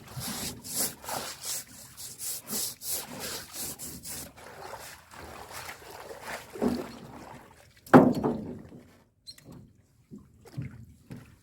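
Handling noise in a small boat as a fish trap is worked: a quick run of crisp rustling, splashing strokes for the first four seconds, a thump a little before seven seconds, and a loud knock on the boat about eight seconds in, followed by a few small taps.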